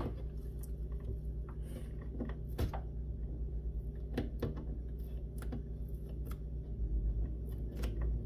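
Skateboard griptape being picked and peeled off the edge of a deck by hand: scattered small clicks and crackles at irregular intervals over a low steady hum.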